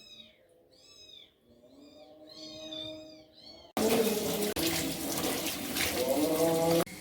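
A cat meowing, then water running from a tap, starting abruptly about four seconds in and cutting off suddenly near the end.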